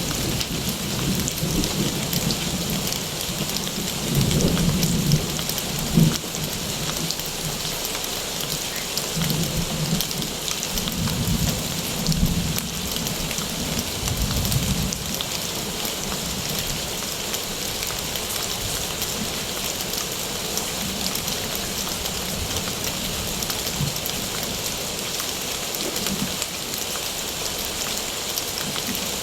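Steady heavy rainfall with low rolls of thunder rumbling in the first half, loudest around six seconds in.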